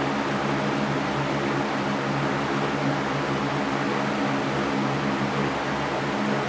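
Electric fan running steadily: an even rush of air with a low, constant hum underneath.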